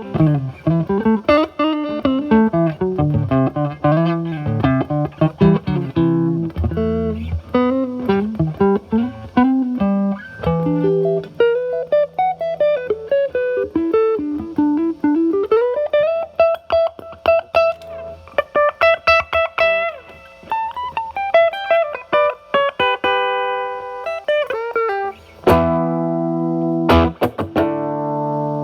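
Electric guitar: a Stratocaster with single-coil pickups played through a Paul Cochrane Timmy overdrive pedal, set at about 9 on its gain, into a Marshall Valvestate amp's drive channel. It plays a lead line of single notes with bends and slides, then switches to struck chords near the end.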